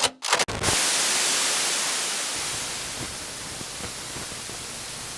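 A few sharp hits in the first second, then a steady hiss of static that slowly fades.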